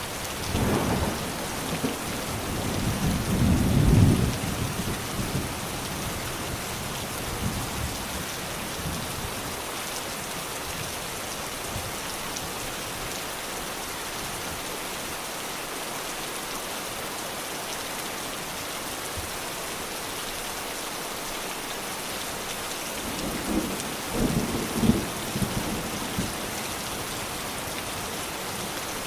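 Steady rain hissing, with two low rolls of thunder: one rumbling through the first few seconds and peaking about four seconds in, and another shorter one near the end.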